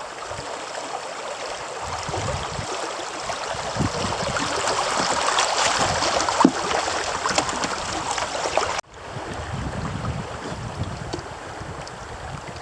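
Flowing creek water, a steady rushing hiss. It breaks off abruptly about nine seconds in and resumes a little quieter.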